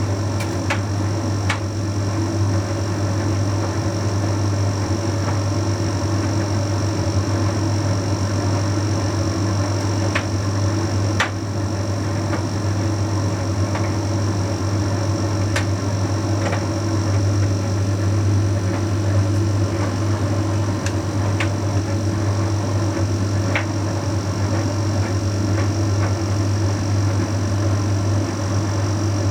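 Bosch Series 6 heat pump tumble dryer running mid-cycle, tumbling a load of shirts: a steady low hum under a faint high whine, with scattered light clicks a few times.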